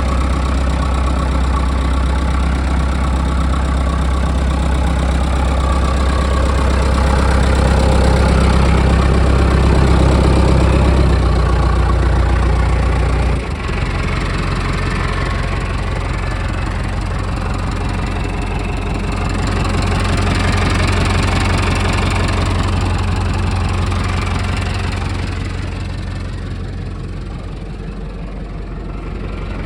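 1986 Massey Ferguson tractor's four-cylinder Perkins diesel engine running steadily, its speed and level swelling and easing a few times, with a sudden change in the low engine note about thirteen seconds in.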